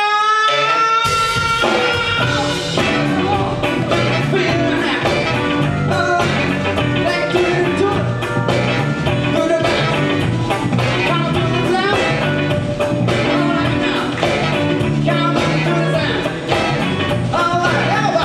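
Live band music: a held note slides upward, then about a second in the full band comes in with drums on a steady beat, with singing.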